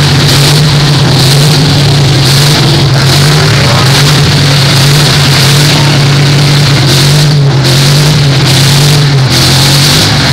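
Full-size demolition derby cars' engines run hard at high revs with tyres spinning in the pit, a steady low drone, loud and distorted on the microphone.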